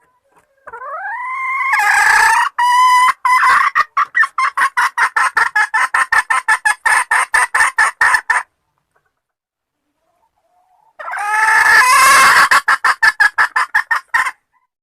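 Junglefowl hen calling: a rising drawn-out note runs straight into a long, fast series of short clucks that stops abruptly. After a pause of about two seconds a second call starts the same way, with a rising note and a run of clucks. It is the hen call used to lure junglefowl cocks.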